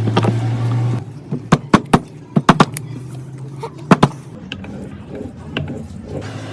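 A motor runs with a steady hum and stops about a second in, followed by a string of sharp clicks and knocks from metal parts being handled.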